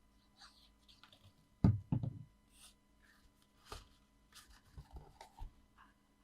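Knocks on the craft table as card pieces are handled and pressed down: two loud thumps about a second and a half in, then a few lighter taps and paper rustles.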